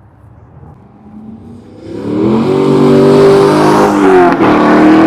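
A loud car engine accelerating hard, swelling in from about a second and a half in. There is a brief dip near the four-second mark, like a gear change, and then it cuts off suddenly at the end.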